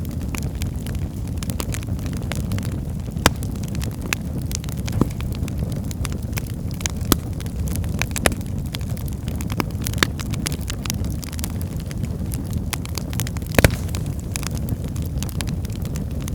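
Wood fire burning in a fireplace: a steady low rumble of flames with frequent small crackles and several sharper pops of burning firewood, the loudest a little before the end.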